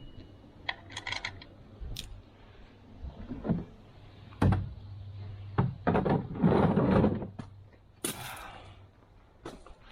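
Scattered metallic clinks and knocks of hand tools being picked up and handled, with a longer rattling, scraping stretch about six seconds in.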